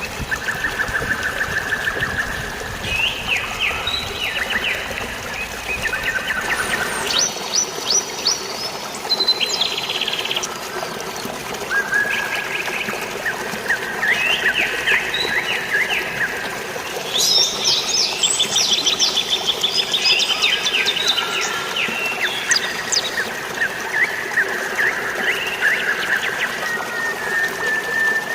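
Several birds chirping and trilling in quick, repeated phrases, over the steady rush of flowing water.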